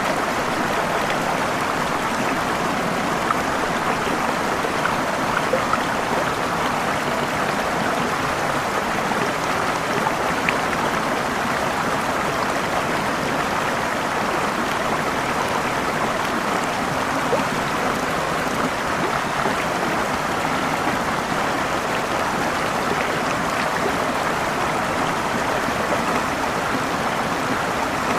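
Waterfall water rushing steadily, with a few small splashes and drips standing out.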